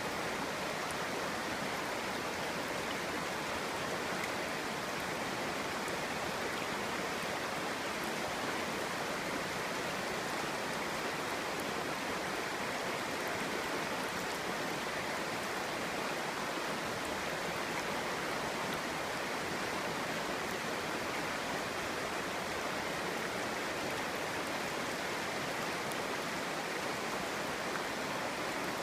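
Clear stream flowing over stones, a steady babbling rush of water.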